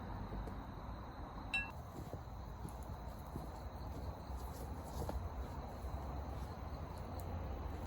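A single short metallic clink with a brief ring, about a second and a half in, over a steady low outdoor background with a few faint ticks.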